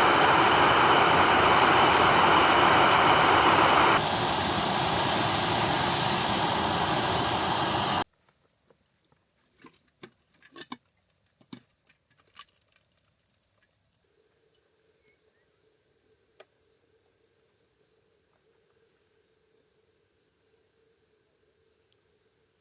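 A loud, steady rushing noise that drops a step about four seconds in and cuts off suddenly about eight seconds in. What remains is an insect's continuous high trill with brief breaks, and a few soft clicks.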